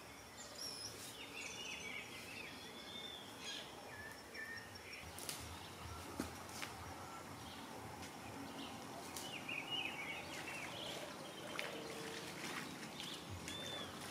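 Several birds chirping and calling over a quiet forest background, with a few sharp clicks about midway.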